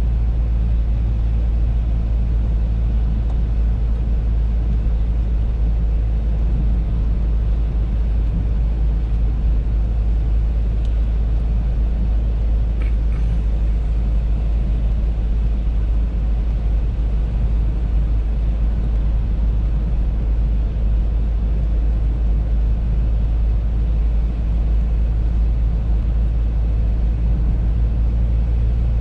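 Audi A3 driving at a steady speed: a continuous low rumble of engine and road noise that does not change.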